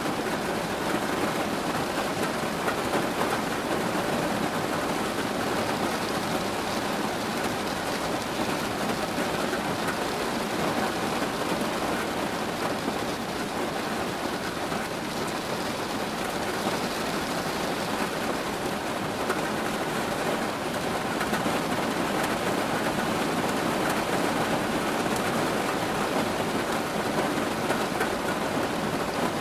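Steady rain falling, an even hiss that holds without breaks or separate bangs.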